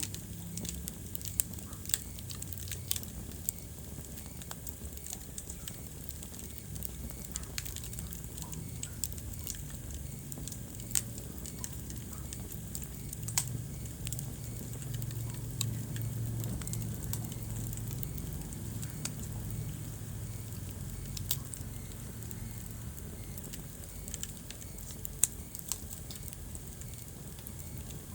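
Wood fire crackling in a fireplace: irregular sharp pops and snaps, a few louder ones, over a steady low rumble and hiss.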